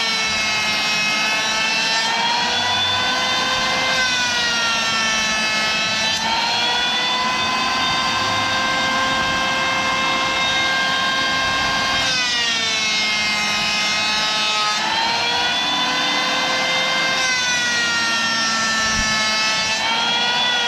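Hand-held electric woodworking power tool running continuously with a high motor whine. Its pitch sags and recovers several times as the load on it changes.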